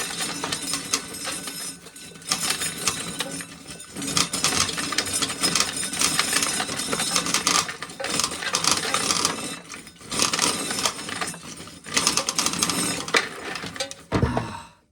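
Corn sheller stripping kernels from ears of corn: a dense, loud rattling clatter of kernels and cobs in repeated bouts of about two seconds, with short dips between them, stopping suddenly near the end.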